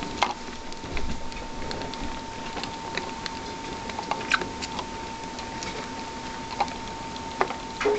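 Pet rats moving about, making an irregular patter of small clicks and scratches, with a couple of louder ticks about halfway through and near the end. A faint steady high whine sits underneath.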